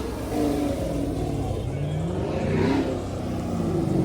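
A car engine revving as a car drives past, its pitch rising through the middle and falling away near the end.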